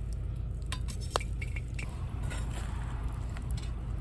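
Scattered metal clinks and knocks from handling a cast-iron Dutch oven and its lid, with one sharper ringing clank about a second in, over a steady low rumble.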